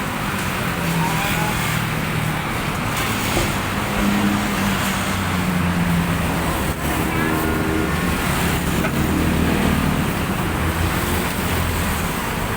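Steady motor-vehicle traffic noise: engines running and a low hum, with faint voices in the background.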